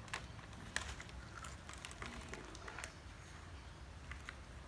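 Faint, scattered crinkles and clicks of a plastic snack packet being handled, a few at a time, over a low room hum.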